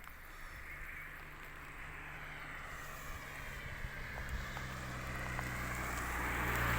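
A motor vehicle's engine running with a steady low hum, growing steadily louder as it comes closer.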